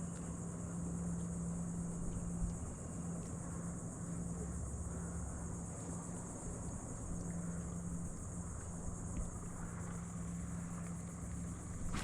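A steady high-pitched insect drone, with a low steady hum under it that drops out briefly a few times.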